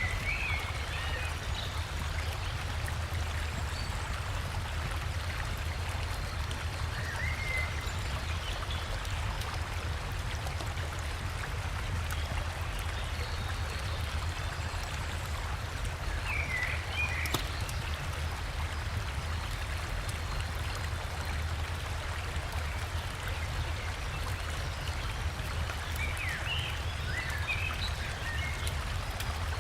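River water running steadily over rocks with a low rumble, like a small waterfall. Small forest birds chirp briefly four times: at the start, about a quarter of the way in, around the middle, and near the end.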